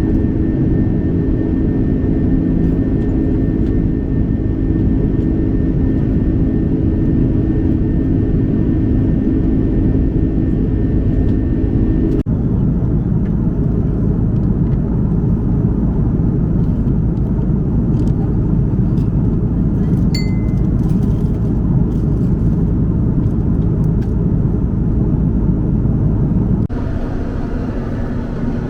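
Steady aircraft noise, a loud rumble with a hiss on top, typical of a jet airliner's engines and airflow heard from inside the cabin. The sound changes abruptly twice, about 12 seconds in and again near the end, where one clip cuts to the next.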